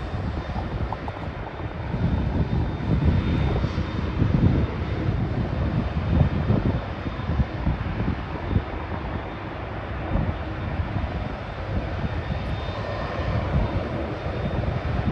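Jet airliner engines rumbling at an airport runway, with uneven gusts of wind buffeting the microphone. The rumble swells for a few seconds near the start, then eases.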